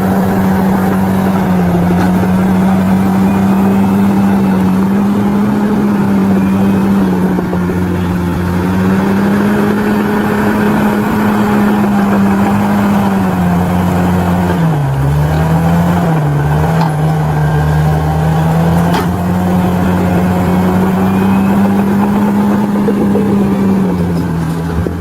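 Bulldozer's diesel engine running steadily at high power, its pitch sagging briefly about halfway through as it takes load, then picking back up.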